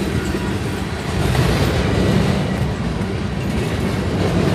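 Freight cars of a passing BNSF manifest train rolling by close at hand: a steady loud rumble and rattle of wheels on rail.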